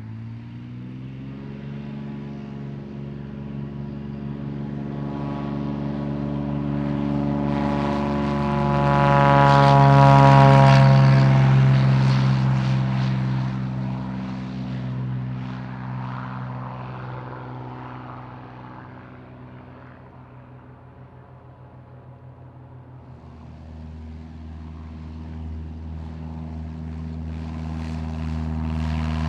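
A light single-engine propeller plane flies past close by. It grows steadily louder to a peak about ten seconds in, its engine pitch drops as it passes, and it fades out. Near the end another propeller engine's drone builds up again.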